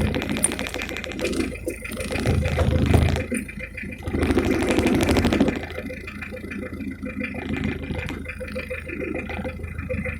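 Toyota 1C four-cylinder diesel engine in a 1990 Corolla running with a rapid, steady diesel clatter, swelling louder twice in the first half.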